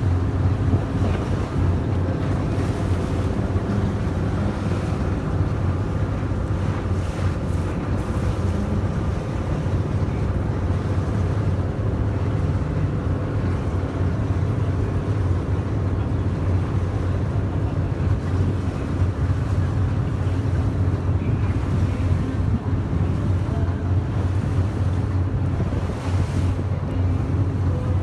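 Yakatabune houseboat under way, its engine running with a steady low hum, with water and wind noise rushing past.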